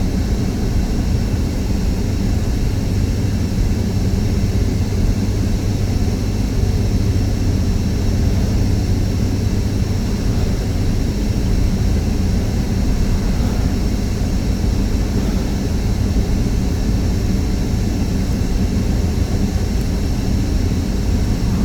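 Steady drone of engine and road noise inside a moving truck's cab.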